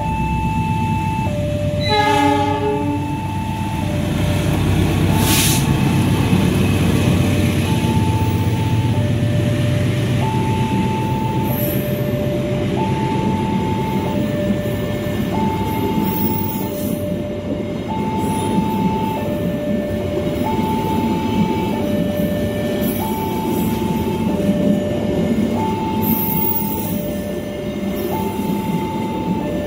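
Railway level-crossing alarm sounding a two-tone signal, alternating between a higher and a lower tone about every second and a quarter, while a passenger train passes. The locomotive's horn gives a short blast about two seconds in, followed by the steady rumble and clatter of the coaches' wheels on the rails.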